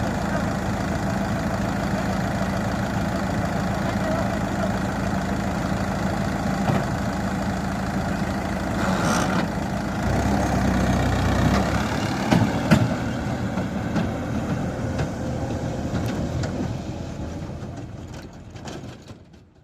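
Farmtrac tractor's diesel engine running steadily. About ten seconds in the sound changes to a deeper rumble with a few knocks, then it fades away near the end.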